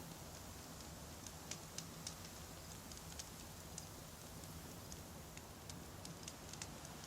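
Wood campfire burning: a steady low rumble of flames with scattered sharp crackles and pops of the burning logs, several in quick succession about one and a half to two seconds in and again near the end.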